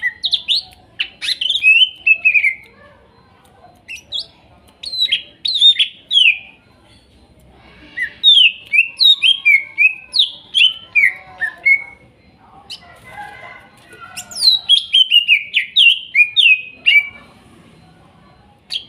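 Green leafbird (cucak ijo) singing in four bursts of quick, downslurred whistled notes, with short pauses between the phrases.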